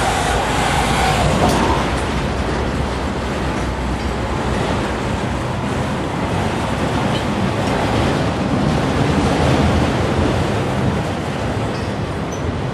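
Enclosed autorack freight cars rolling past at trackside: a steady rumble and roar of steel wheels on the rails, swelling a little now and then as the cars go by.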